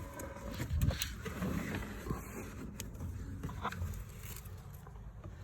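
A few light clicks and scrapes of a car's plastic cabin air filter housing being handled and opened behind the lowered glovebox.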